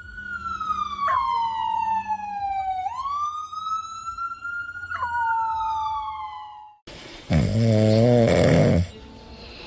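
A dog howling: one long howl that falls slowly in pitch, then a second that rises and then drops and holds, ending about seven seconds in. It is followed by about two seconds of loud, rough, low noise.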